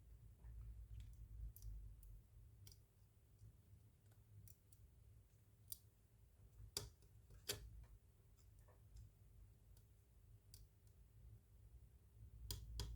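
Faint, scattered small clicks and taps of tweezers on a smartphone's internal plastic and metal parts as its antenna cable is routed back into place, a few stronger clicks in the middle, over a faint low hum.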